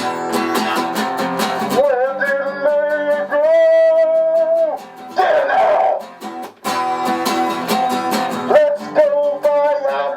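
Acoustic guitar strumming while a voice sings long held notes over it.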